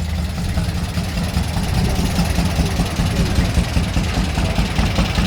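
A car engine idling with a steady, quickly pulsing low rumble.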